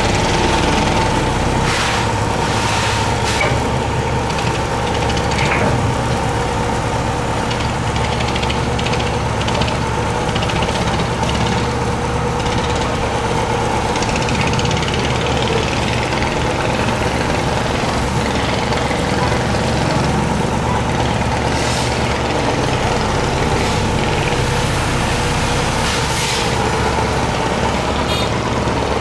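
A boat's engine running steadily, a constant low drone with a steady higher hum over it.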